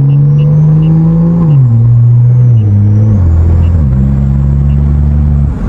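BMW M340i's turbocharged inline-six, fitted with a turbo part that lets it flow more air, pulling through the gears. The engine note holds steady, then drops in pitch in several quick steps as it shifts up, with a thin high whine rising and falling over it. Near the end the engine note cuts off into a rushing noise.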